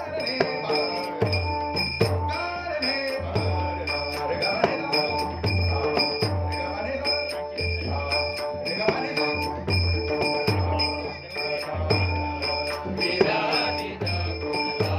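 Bhajan music: a drum keeping a steady beat of low strokes, small hand cymbals jingling, and long held tones over them.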